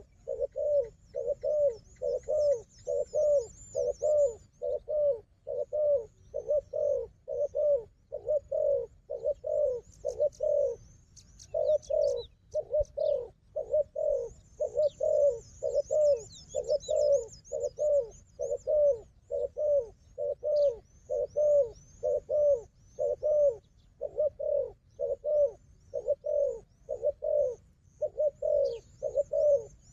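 Spotted doves cooing in quick repeated low notes, about two to three a second, pausing briefly twice. Thin high chirping of small birds runs above the coos.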